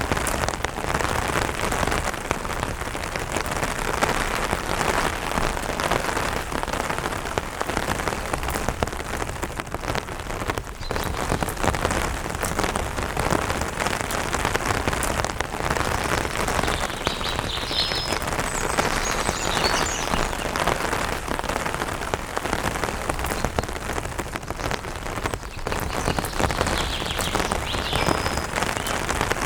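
Steady rain drumming on an umbrella canopy, a dense patter of drops. A few faint high bird chirps come through about two-thirds of the way in and again near the end.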